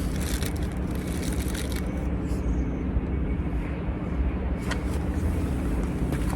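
A steady low rumble with a humming tone under it, broken by a few brief clicks.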